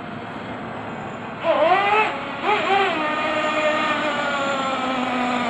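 Radio-controlled truck motor revving in two short bursts about one and a half and two and a half seconds in, then running at a steady, slowly falling pitch.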